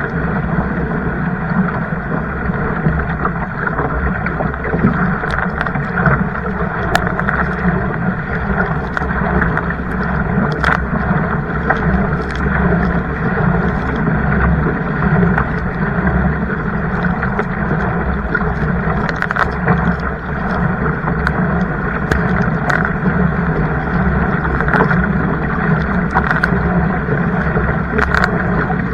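Kayak moving through water: a steady rush of water with wind on the microphone, scattered with many short splashy ticks.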